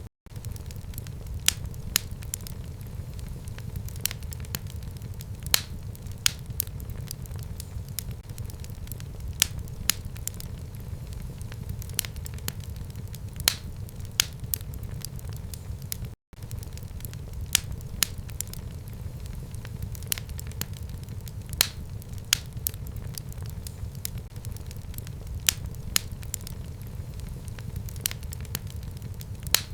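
Fire burning in a fireplace: a steady low rumble of flames with irregular sharp crackles and pops, several a second. The sound cuts out completely for a split second twice, at the start and about 16 seconds in.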